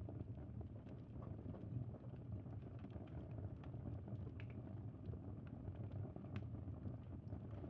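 Bonfire crackling: a steady low rush of burning with irregular sharp pops and snaps scattered through it.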